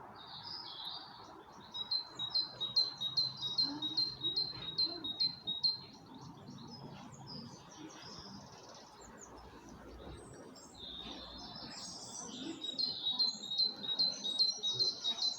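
A songbird singing a phrase of quick repeated high notes, about three a second, then pausing and starting the same phrase again near the end.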